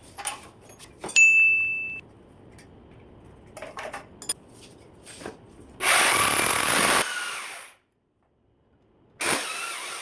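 Power drill running in a short burst of about a second, with another brief burst near the end and scattered knocks and clicks of carpentry work between them.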